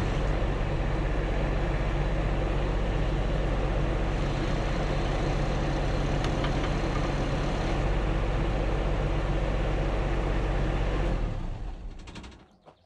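MachPro MP30 mini excavator's engine running steadily, then shut off about eleven seconds in and dying away within a second or so.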